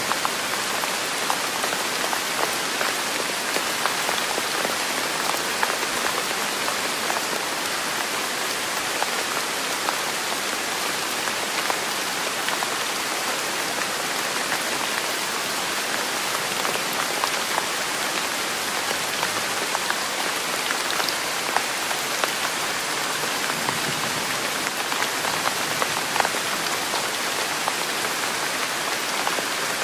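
Steady rain falling on a surface: an even hiss sprinkled with many small, scattered drop ticks.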